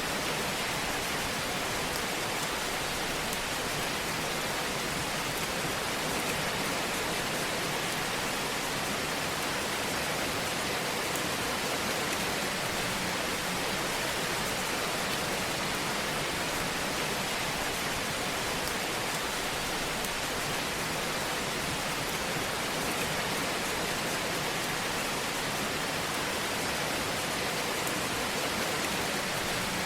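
Fire burning in a fireplace: a steady hiss with faint, scattered crackles.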